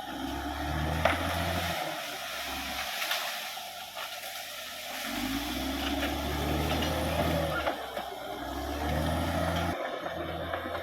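Caterpillar D6R XL bulldozer's diesel engine working, its low note swelling and dropping away several times as the load comes on and off, with steady mechanical noise from the machine over it.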